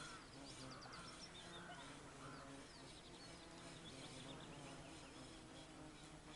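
Faint outdoor birdsong: small birds giving quick high trills and short chirps in two bouts, in the first second and again around the middle, over a quiet steady background.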